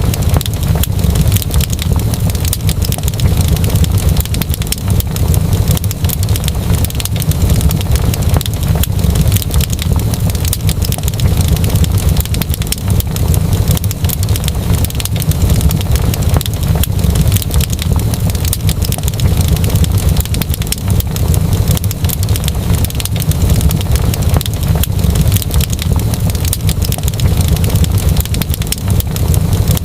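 Wood fire crackling, with many small irregular pops over a steady low rumble.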